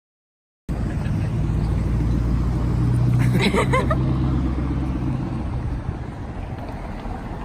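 A motor vehicle's engine drone that cuts in suddenly just under a second in, swells to a peak and then eases off, like a vehicle driving past. A brief high chirping sound comes at the loudest point.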